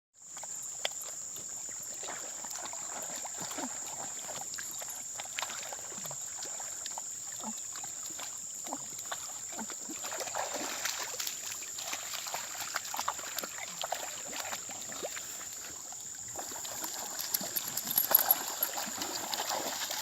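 Water splashing and trickling in small, irregular splashes, with a steady high-pitched whine throughout; the splashing grows busier near the end.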